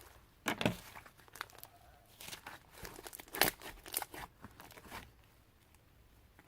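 Bubble slime with clay mixed in being squeezed and pressed by hand, giving irregular crackling pops and crunchy clicks in clusters, fading to a few faint ones near the end.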